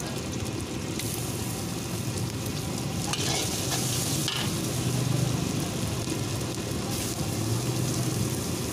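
Egg frying and sizzling in hot oil in a large steel wok, with a metal ladle-spatula stirring and scraping against the pan. The sizzle rises about a second in and flares loudest from about three to four and a half seconds in, over a steady low hum.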